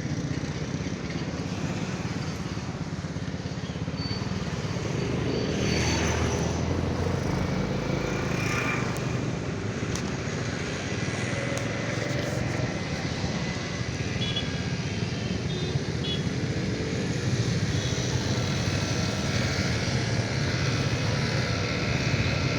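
Motorcycle engine running steadily while riding through city traffic, with continuous road noise.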